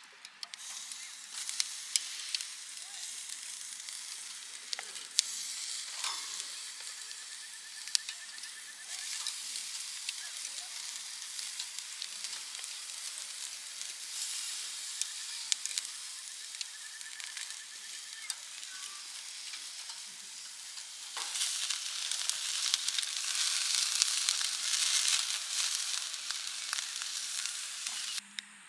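Meat sizzling on a Uniflame Unisera TG-III tabletop charcoal grill, a steady frying hiss with scattered sharp pops and spits. The sizzle grows louder about three-quarters of the way through.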